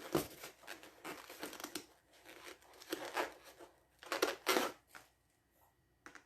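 Crinkling, rustling handling noise in irregular bursts, like paper or plastic being crumpled and rubbed. The two loudest bursts come about four seconds in, with a brief one near the end.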